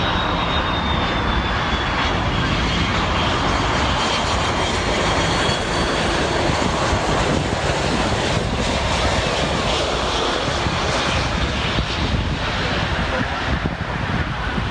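Jet airliner engines running loud and steady as a heavy aircraft passes on landing, with a high engine whine that slides slowly down in pitch over the first few seconds.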